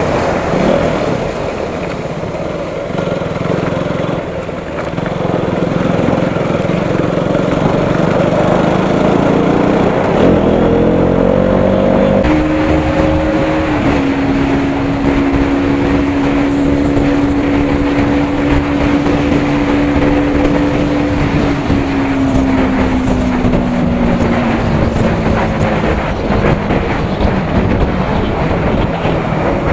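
Single-cylinder 200 cc motorcycle engine running at highway speed under a steady rush of wind and road noise. Its note climbs about ten seconds in, holds steady, then slowly drops as the bike eases off.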